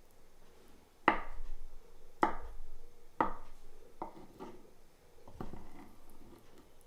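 A knife chopping food on a wooden board: about six separate strokes, roughly a second apart, each with a short ring.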